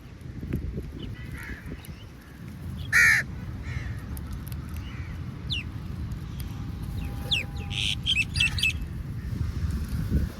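Crow cawing: one loud, harsh caw about three seconds in, then a cluster of quicker, higher-pitched bird calls near the end, over a steady low rumble.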